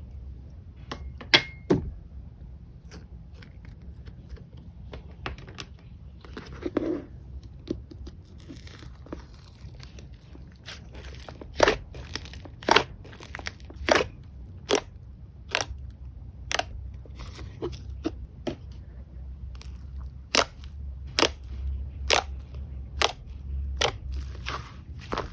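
Slime being pressed and squeezed by hand, giving sharp pops and clicks. They come sparsely at first and then about once a second over a low steady hum.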